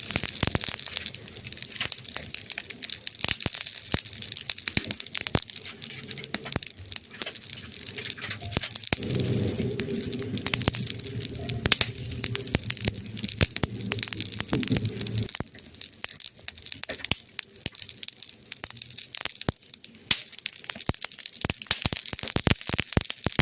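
Wood fire crackling: dense, irregular pops and snaps over a steady hiss, with a low hum joining for several seconds in the middle.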